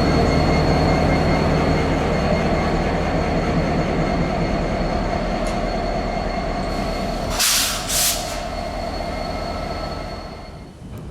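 A train rolling past on steel wheels, with a thin steady wheel squeal over the rumble. About seven and eight seconds in there are two short hissing bursts, and near the end the sound dies away.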